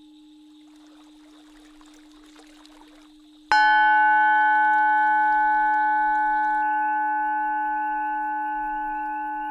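A Tibetan singing bowl struck once about a third of the way in, ringing with several steady overtones that fade slowly, over a continuous low drone tone.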